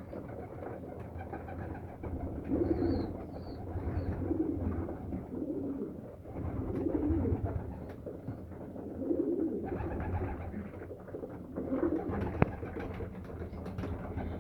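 Domestic pigeons cooing, a low rolling coo repeated every second or two, with a single sharp click about twelve seconds in.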